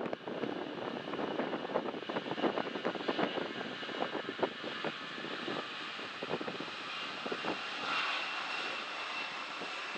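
Jet engines of a Boeing 787-9 airliner running, a steady noise with a high whine that grows stronger near the end. Wind buffets the microphone in the first half.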